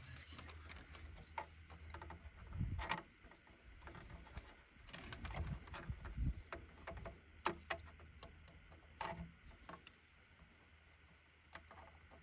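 Scattered clicks and knocks of plastic intake parts, clips and connectors being worked loose by hand in an engine bay, over a low steady hum that stops about ten seconds in.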